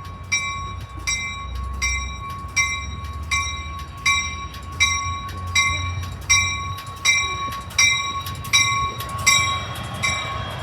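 Railroad bell ringing at a steady beat, about four strikes every three seconds, each strike ringing on, over the low rumble of a train. Near the end a hiss of train wheel noise rises beneath the bell.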